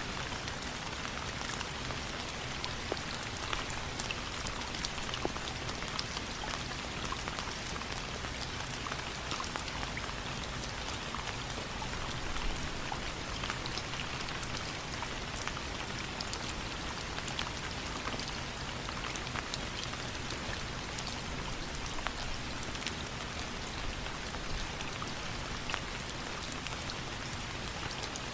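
Steady rain falling on a surface: a continuous hiss with many small sharp drop ticks scattered through it.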